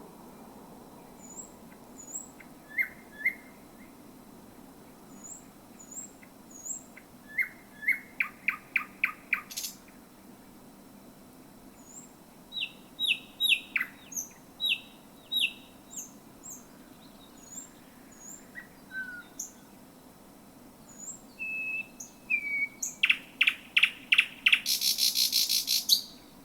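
Thrush nightingale singing: short phrases of high whistled notes, runs of rapid clicking notes, and a series of repeated notes. Near the end a fast run of clacking notes leads into a loud, harsh rattle, the loudest part of the song. A steady low hum sits underneath.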